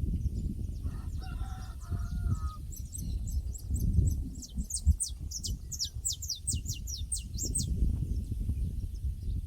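Farmyard pasture ambience: a distant rooster crows about a second in, then a small bird sings a fast run of high, downward-sliding chirps. A steady low rumble lies under both and is the loudest part.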